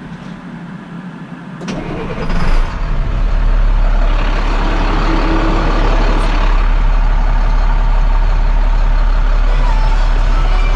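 Heavy tow truck's diesel engine starting about two seconds in, then running steadily with a deep, even rumble.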